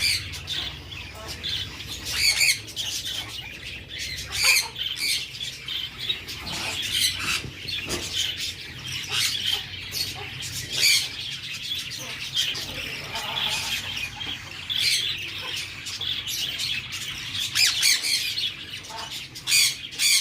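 Baby budgerigars (parakeet chicks) calling, short high calls in quick, uneven succession, the begging calls of chicks being hand-fed.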